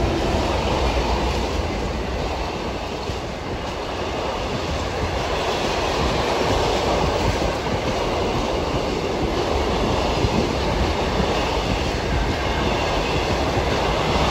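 Heritage train's carriages and vans rolling past at close range: steel wheels on the rails make a steady rumble with occasional clacks.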